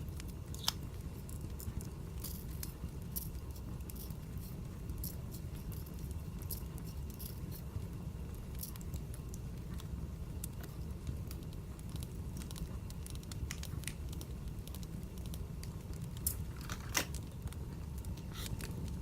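Wood fire burning, with scattered crackles and snaps over a low steady rumble; a few louder pops come close together near the end.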